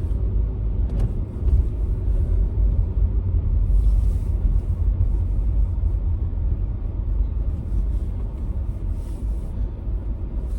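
Car driving on snowy roads, heard inside the cabin: a steady low road and engine rumble.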